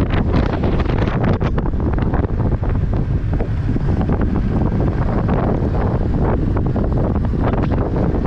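Wind buffeting a helmet-mounted microphone on a moving motorcycle: a loud, steady rush of wind noise with constant crackling gusts.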